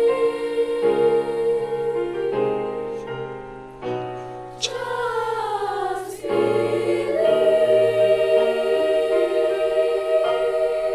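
A school choir singing slow held chords, with a falling slide in pitch about halfway through and a long sustained chord after it.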